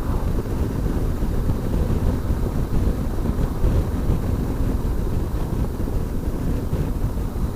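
Wind buffeting the rider's microphone on a moving Aprilia motorcycle, over engine and road noise. It is a steady rush, heaviest in the low end.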